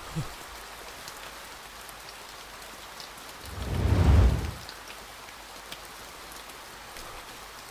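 Steady rain falling, with a low rumble that swells and fades about four seconds in.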